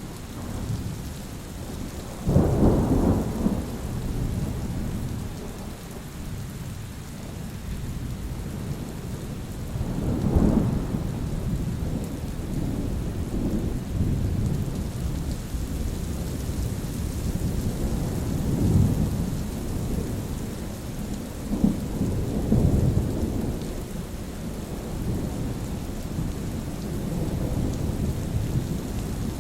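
Steady rain with rolling thunder: several low rumbles swell and fade, the sharpest cracking in about two and a half seconds in, others near the middle and past two-thirds of the way through.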